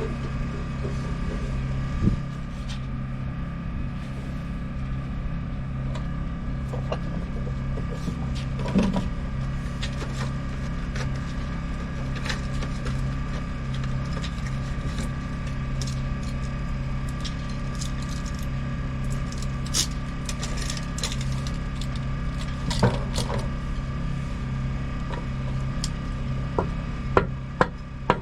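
A motor running with a steady low hum, with scattered clicks and knocks of parts or tools being handled.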